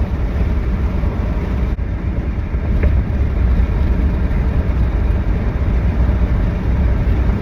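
Steady low rumble of a vehicle on the move: engine and road noise, with the camera picking up heavy vibration.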